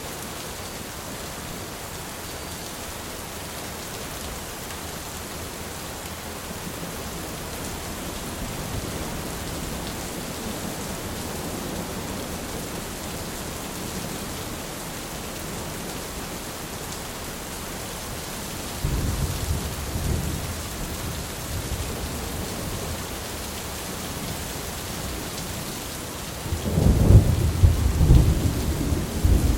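Steady rain during a thunderstorm, with thunder rumbling: a short rumble about two-thirds of the way in and a louder, longer one near the end.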